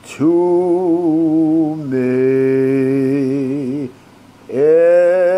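A man singing a slow ballad unaccompanied, with three long held notes and a wide vibrato and short silent breaths between them.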